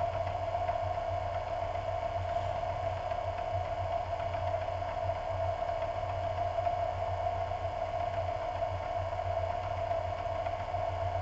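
Open-wheel race car engine idling steadily, heard through a camera mounted on the car.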